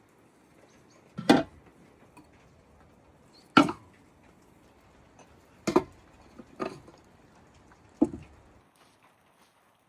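Five heavy single knocks, a second or two apart, with nothing between them but a faint background.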